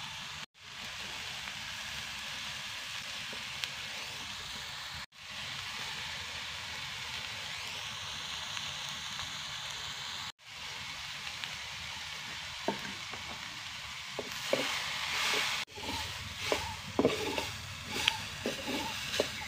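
Cauliflower and spices sizzling in oil in a clay pot over a wood fire, a steady hiss that cuts out briefly four times. In the last third a wooden spoon stirs the pieces, adding short irregular scraping strokes against the clay.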